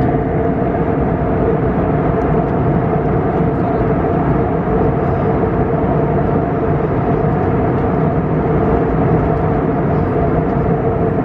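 Steady drone of an Airbus A321neo cabin in flight: engine and airflow noise, loud and unchanging, with a constant low hum of a couple of steady tones.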